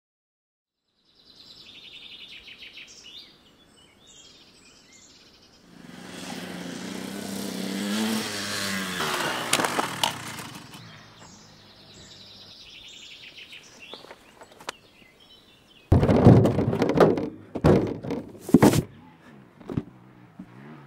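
Birds chirping, broken in the middle by a louder, rising-and-falling sound lasting about four seconds, and near the end by several loud sudden bursts.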